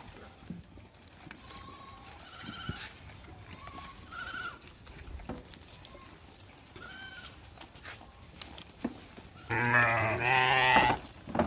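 Sheep bleating: a few faint, high bleats in the first half, then one loud, long, wavering bleat near the end.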